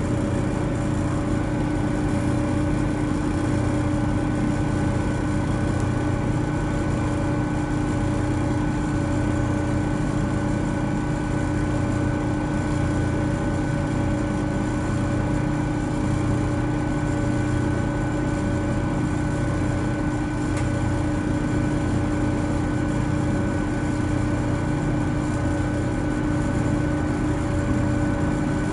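Intercity Express Train idling at a standstill, heard from inside the carriage: a steady engine drone and rumble with a constant hum of several held tones.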